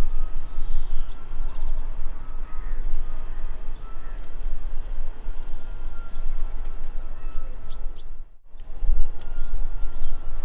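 Steady low rumble with birds chirping faintly over it; the sound cuts out for a moment about eight seconds in.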